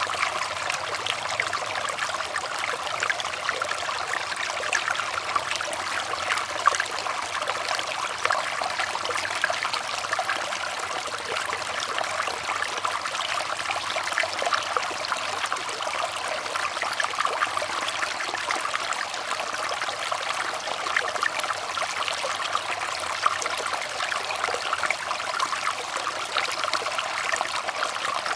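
Running water trickling steadily, with a dense spatter of small splashes and no pauses.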